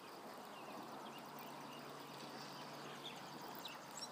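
Faint bird chirps over a steady outdoor background hiss.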